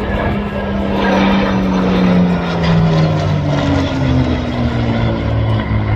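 Supermarine Spitfire's piston engine and propeller flying past: a steady engine note that slides down in pitch as it goes by.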